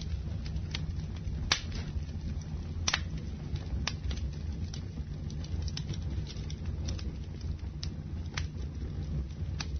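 Campfire burning with a steady low rumble and scattered sharp crackles and pops, the loudest about one and a half and three seconds in.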